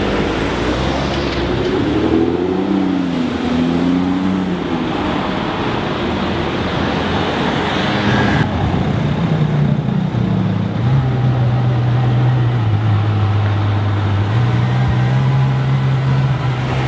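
Sports-car engines in street traffic. First an Aston Martin convertible's engine rises and falls in pitch as it drives past and away. Then, about eight seconds in, a Ferrari F12berlinetta's V12 runs at low revs, a steady low drone that steps up and down in pitch.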